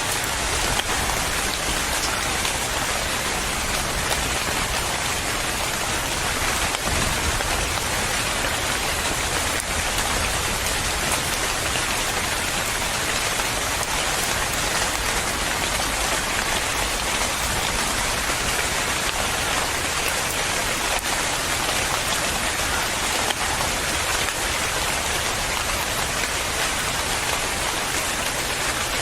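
Steady, even rainfall, a constant hiss of rain on surfaces with no thunder or change in strength.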